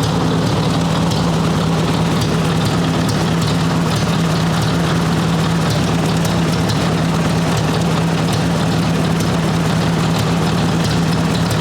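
1958 Ford 851 tractor's four-cylinder engine idling steadily, running the newly rebuilt hydraulic pump while it bleeds air out of the system.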